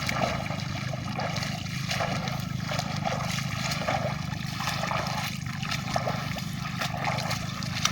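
Shallow water sloshing and trickling with small irregular splashes, as a person wades and gropes by hand in a muddy stream.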